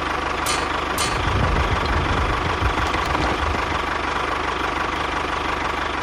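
A motor running steadily with a low rumble and a constant whine, with a few light clicks in the first second.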